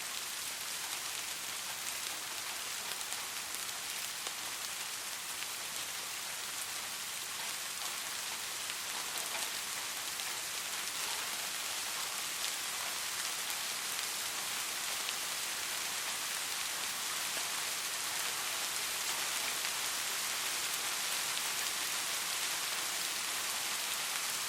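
Soft steady rain falling, an even hiss with fine drop patter.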